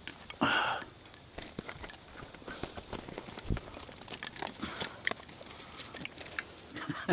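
Rustling and crinkling with many small irregular clicks and crackles, the sound of clothing, gear or blind material being handled, after a short breathy burst about half a second in.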